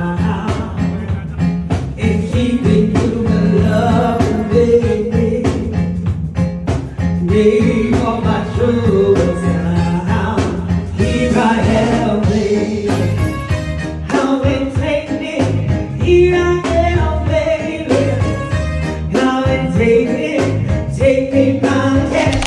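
Live band playing a soul-style song with drums and a lead singer, steady and loud throughout.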